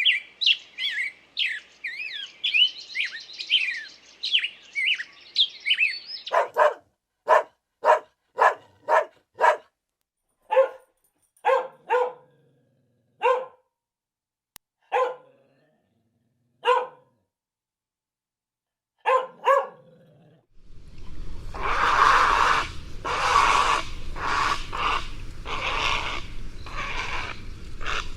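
Small birds chirp rapidly for about the first six seconds. A dog then barks in about fifteen single, separate barks with pauses between them. Near the end a different animal calls loudly in rough, repeated calls.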